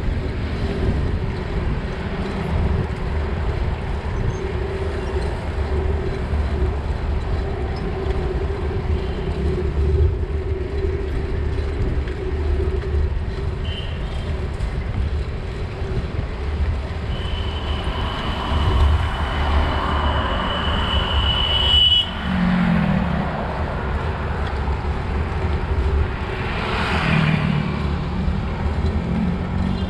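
Steady city road-traffic noise with a low wind rumble heard from a moving bicycle. A thin, steady high tone holds for about five seconds and stops suddenly about two-thirds of the way in, and a couple of vehicles swell past.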